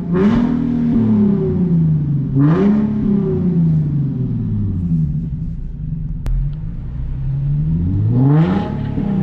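Nissan 370Z's 3.7-litre V6 through a new, loud aftermarket exhaust, revved three times while parked, each rev sweeping up and dropping back, with a steady idle between the second and the last rev near the end.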